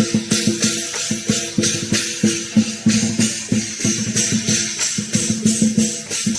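Lion dance percussion: a drum and clashing cymbals playing a fast, steady beat.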